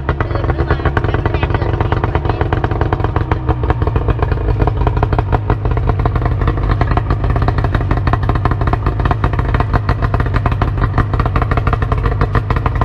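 Small engine running steadily close by, with a fast even beat, a little louder after about four seconds.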